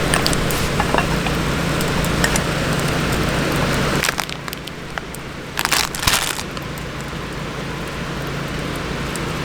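Food sizzling and crackling in a wok over a wood campfire, with many small crackles. About four seconds in, the sizzle drops away, and a few sharp clatters follow.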